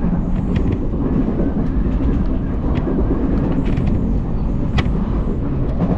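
Odakyu Line electric commuter train running along the track: a steady low rumble broken by scattered sharp clicks from the wheels and rails.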